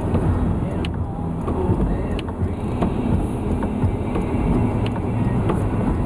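Inside a car driving over slushy, snow-covered streets: the tyres and road give a steady low rumble, with a few faint ticks.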